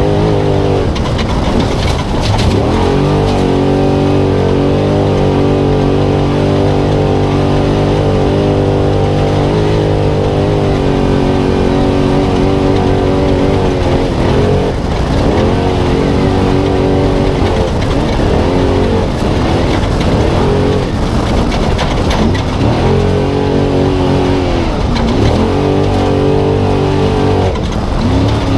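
Spec Trophy Truck engine at sustained high revs, heard from onboard the truck at race pace. Its pitch holds steady for long stretches and drops and climbs back again several times as the throttle is lifted and reapplied.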